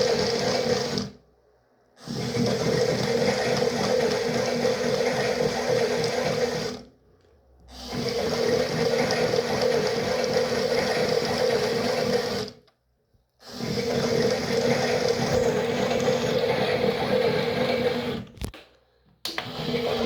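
Toy washing machine running: a small electric motor hums steadily while water sloshes in the drum. The motor stops for about a second roughly every six seconds and starts again, as the wash cycle pauses between turns of the drum.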